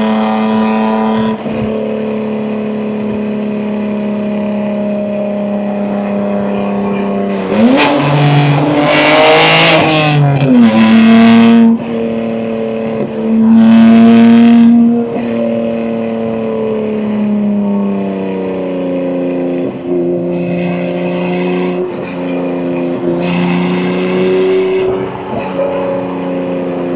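BMW M2 G87's S58 twin-turbo inline-six, fitted with catless downpipes and an equal-length mid pipe, running at a steady cruise and then pulling hard about eight seconds in, its pitch rising before dropping at a gear change. Further loud throttle surges follow around fourteen seconds and again near the end.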